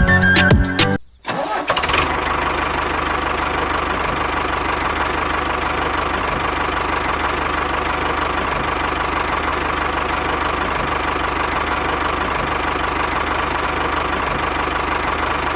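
Music ends about a second in, then a small motor runs steadily at an even speed with a constant hum.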